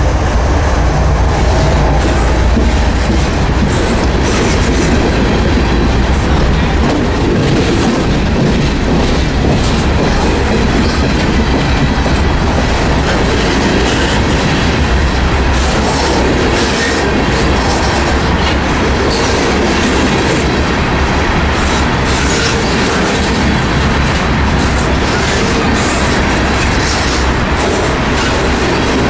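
Freight train cars rolling past close by: a loud, steady rumble of steel wheels on rail, broken by many quick clicks as the wheels cross rail joints.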